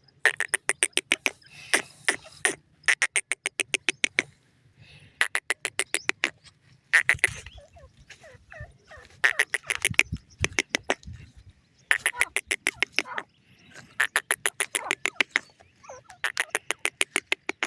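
Francolin (teetar) calling in repeated bursts of rapid, sharp clicking notes, about nine a second, each burst lasting around a second with short pauses between. Faint short chirps come in the gaps, and a few low thuds come in the middle.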